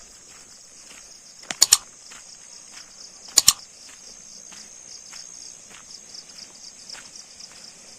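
Steady high-pitched chirring of insects, with two loud sharp double clicks, about one and a half and three and a half seconds in, and faint irregular knocks like footsteps.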